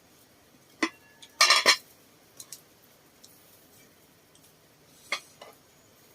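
Eating utensils clinking and tapping against bowls and dishes during a meal. There is a loud cluster of clinks about a second and a half in, and a few lighter taps later.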